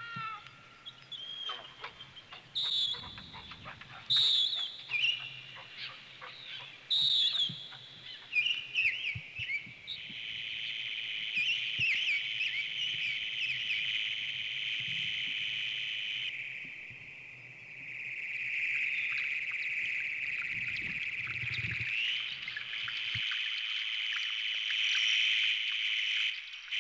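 Songbirds singing over an open meadow: separate short calls and song phrases at first, then, from about a third of the way in, one long unbroken stream of song.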